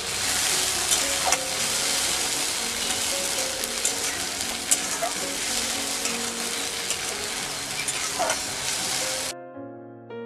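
Chopped tomatoes and onion-ginger-garlic paste sizzling in hot mustard oil in a kadai, stirred with a spatula that scrapes and clicks against the pan now and then. The sizzling cuts off suddenly about nine seconds in, leaving soft background music.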